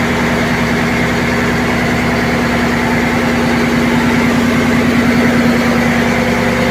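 Ship's engine-room diesel machinery running steadily: a loud, even drone with a steady hum.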